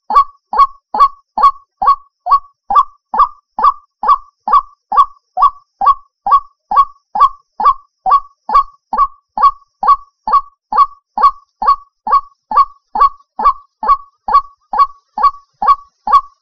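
White-breasted waterhen (ruak-ruak) calling in a fast, monotonous series of short, honking, downward-falling notes, about two to three a second, repeated without change. It is a looped lure call used to draw waterhens in for trapping.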